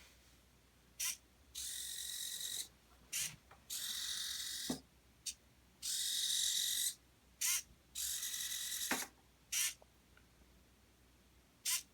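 Small geared DC motors of a two-wheel robot car running in stop-start bursts of about a second each, a whirring gear whine with short clicks between runs.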